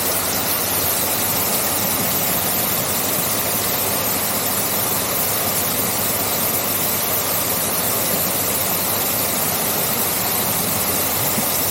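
Artificial-rock waterfall pouring into a pool: a steady, even rush of falling water.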